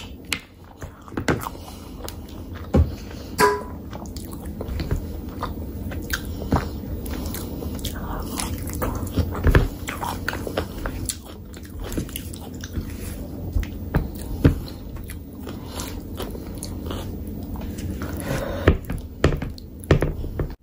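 Close-miked chewing and wet mouth smacks of a person eating mutton curry with rice by hand, with irregular sharp clicks and smacks throughout.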